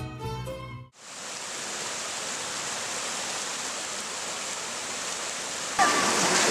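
Music ends in the first second, then a steady, even rushing noise, like running water or hiss. About a second before the end it jumps louder, with a few brief voice-like sounds in it.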